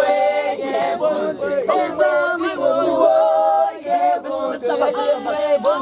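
A group of people singing a hymn together without instruments.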